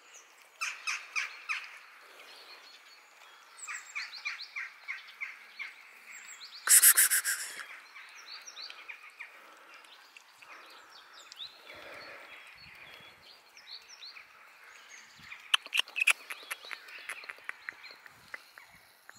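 Small birds chirping and twittering in short, quick runs of repeated notes, with one loud burst of rapid chatter about seven seconds in.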